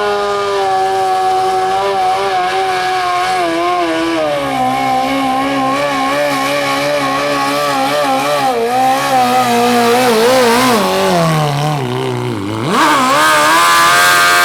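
A modified pulling lawn tractor's engine running hard at high revs. The pitch wavers and slowly drops as it labours, dips, then rises sharply in a burst of revving near the end.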